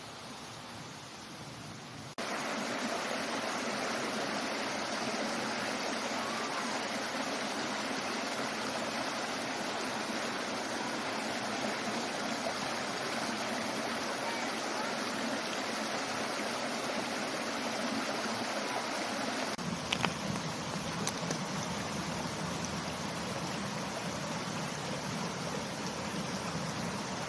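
Mountain valley stream flowing, a steady rush of water. It gets louder about two seconds in and fuller and deeper after about twenty seconds, with a couple of faint clicks.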